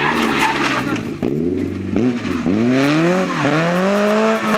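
Rally car engine under hard acceleration, its pitch climbing and dropping back at each gear change, about three shifts in the second half.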